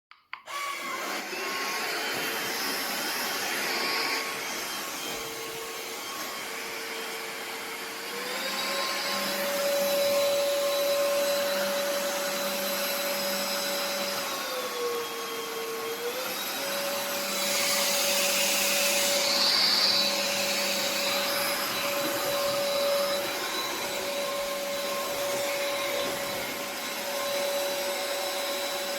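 Vexilar V9PRO cordless stick vacuum switching on and running with a steady motor whine and airflow hiss. Its pitch steps up about eight seconds in, dips briefly around the middle and comes back up, with a louder rush of hiss a little past the middle.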